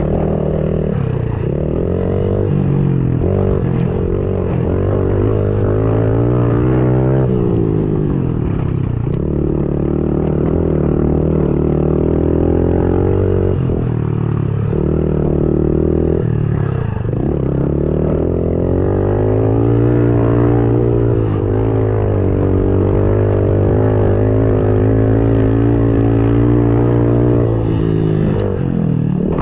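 110cc pit bike engine being ridden hard, revving up and down over and over, with the pitch climbing and then dropping off several times.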